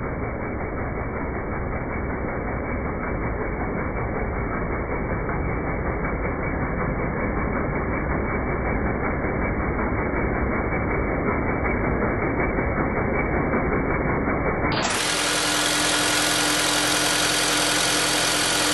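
Mitsubishi 4B12 2.4-litre inline-four petrol engine running steadily. About fifteen seconds in, the sound cuts abruptly to a brighter, steady hum with several held tones.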